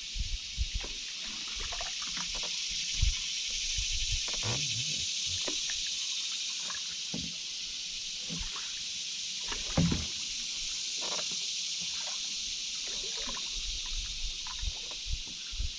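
Canoe on a river: paddle strokes dipping and dripping, with occasional knocks against the hull, over a steady high hiss.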